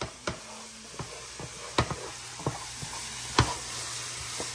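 Food sizzling in a cooking pot, a steady frying hiss broken by several sharp knocks.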